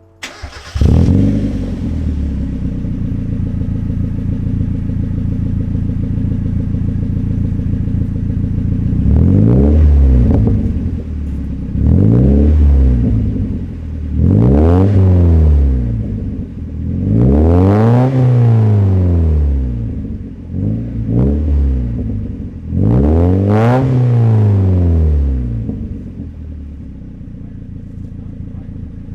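NA Mazda Miata four-cylinder engine breathing through an aftermarket Manzo eBay exhaust: it comes in about a second in, idles steadily, then is revved five or six times, each rev rising and falling back to idle.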